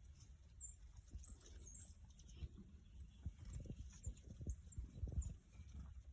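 Faint, short high-pitched chirps of small wild birds, over irregular low taps and knocks.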